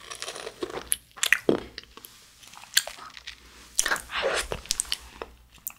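Grape-shaped fruit jelly being chewed and sucked out of its plastic pouch: irregular wet mouth clicks and smacks.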